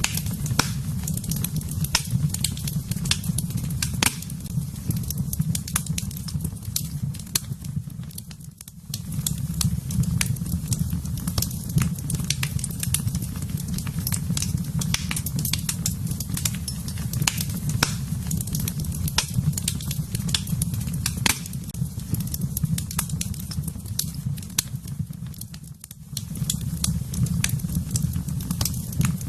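Fireplace fire crackling, with frequent sharp pops over a steady low rumble. The sound dips briefly twice, about a third of the way in and near the end.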